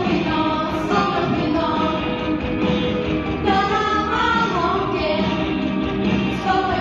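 A song continuing: a singing voice with musical accompaniment.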